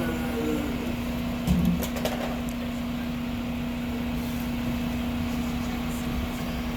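Mack LR garbage truck's diesel engine running steadily with a constant drone. A brief knock comes about a second and a half in.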